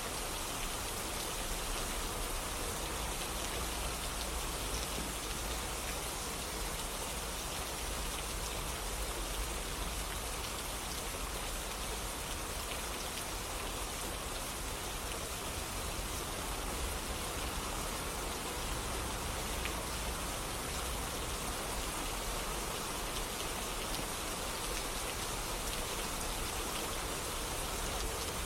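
Steady rainfall: a constant hiss of rain with scattered drops ticking on a surface.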